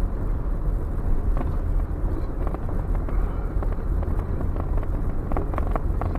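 Car driving slowly, heard from inside the cabin: a steady low rumble of engine and road noise, with a few light clicks near the end.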